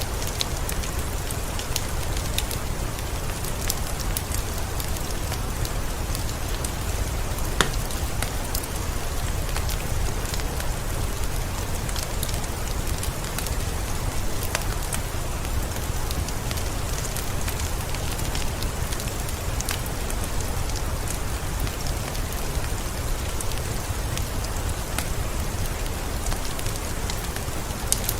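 Heavy rain pouring steadily in a forest: a dense, even hiss with a deep low rumble underneath and single drops ticking sharply here and there, one louder tick about seven and a half seconds in.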